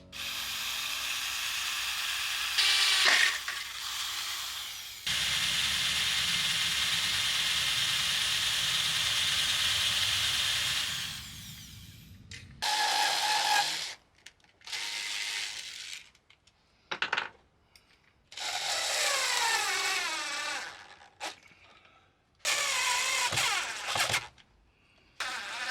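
A power tool running: a long steady run with the motor note deepening partway through, then several short bursts whose pitch slides up and down.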